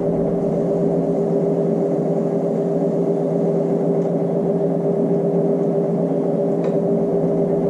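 A steady pitched hum that holds an even level throughout, with a few faint clicks about four and seven seconds in.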